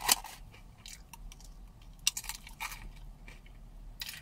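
A person chewing a thick-cut potato chip with the mouth close by, a series of irregular crunches spaced roughly a second or less apart.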